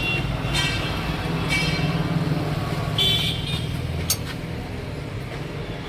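Road traffic with a vehicle engine running, and a short horn toot about three seconds in. A sharp click comes just after four seconds.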